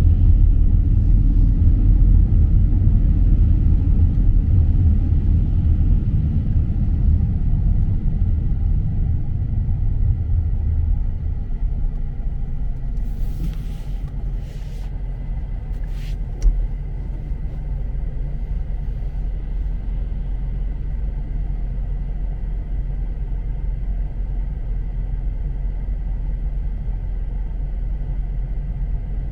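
Low rumble of a vehicle heard from inside, loudest for the first ten seconds or so, then easing to a quieter, steady hum. There is a single short knock about halfway through.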